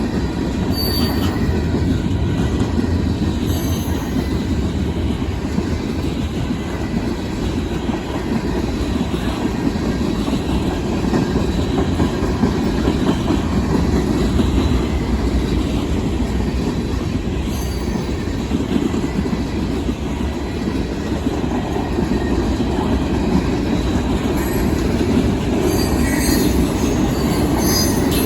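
Freight train cars rolling past at a crossing: a steady, loud rumble of steel wheels on rail, with brief high-pitched wheel squeals now and then, most around the end.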